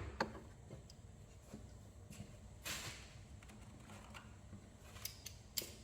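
Faint handling of hand tools: a brief rustle near the middle and a few small sharp clicks near the end, as a socket is picked from a tool kit.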